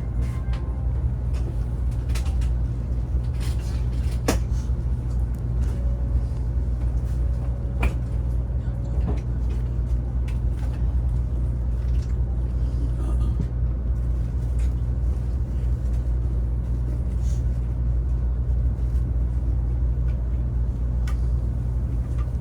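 Taiwan High Speed Rail train cabin noise: a steady low rumble from the running train, with a few faint clicks and knocks over it.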